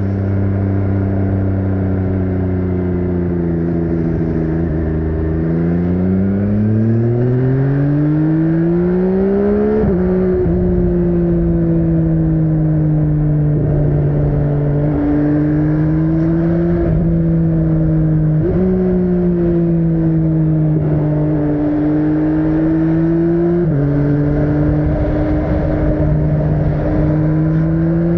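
MV Agusta Brutale 800's inline three-cylinder engine, at first running at a steady pitch, then revving up over about five seconds to a sharp drop as it shifts gear about ten seconds in. After that it holds a fairly steady pitch under way, easing up and down with a few quick jumps in pitch as the rider shifts and works the throttle.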